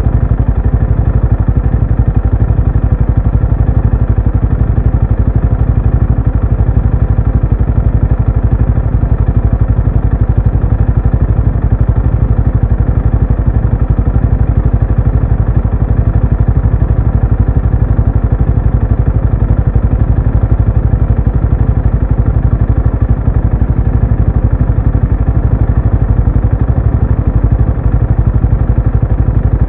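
Benelli Imperiale 400's air-cooled single-cylinder four-stroke exhaust running at a steady, unchanging engine speed, with no revving or gear changes.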